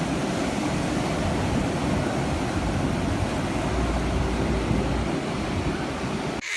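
Sea surf washing on the shore, with wind rumbling on the microphone; it cuts off suddenly near the end.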